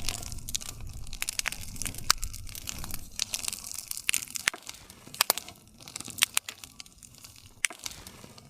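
Wood campfire crackling: irregular sharp pops and snaps of burning wood over a low rumble of the flames.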